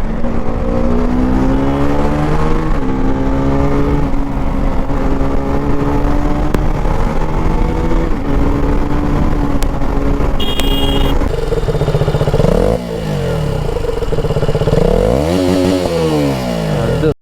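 KTM RC 200's single-cylinder 199.5 cc engine running and revving. The pitch climbs and steps as the throttle changes, then swings sharply up and down over the last few seconds.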